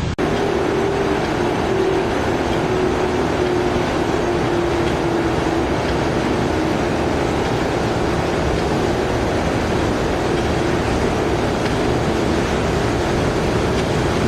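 Poreba TCG 160 engine lathe running under power, a steady mechanical noise with a faint, slightly wavering gear whine in it. It begins abruptly at an edit.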